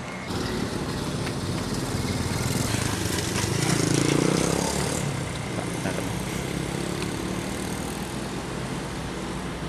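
Diesel locomotive engine running as a train passes, swelling to its loudest about four seconds in and then easing to a steady run.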